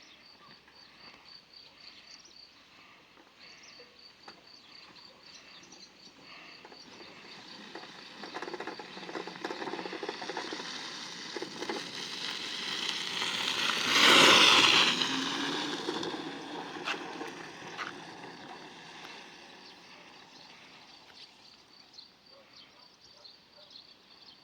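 A home-built electric motorcycle passing by: its motor whine and tyre noise grow steadily louder, peak about halfway through with a drop in pitch, then fade away. Crickets chirp steadily throughout.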